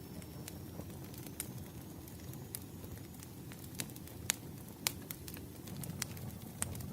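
Wood fire crackling: a steady low rumble of flames with irregular sharp pops and snaps, a handful of them, the loudest near the middle.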